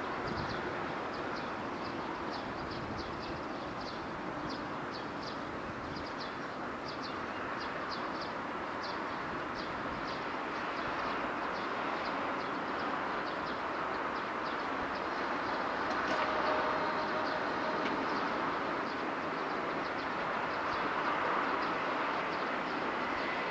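Steady rumble and hiss of a distant electric train, with a quick run of high chirps or ticks through the first half. A brief steady tone sounds about two-thirds of the way in.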